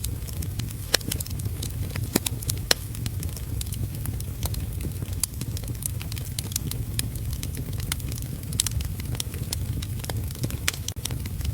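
Wood fire in a fireplace crackling, with irregular sharp pops scattered through over a steady low rumble.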